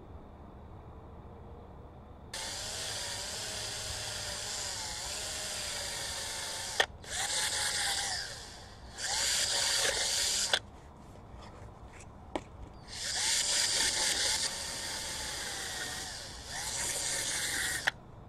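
Small power tool grinding brake caliper pins clean. It runs in five bursts of one to four seconds, and its motor pitch sags and recovers as it bears on the metal. A few sharp clicks fall between the bursts.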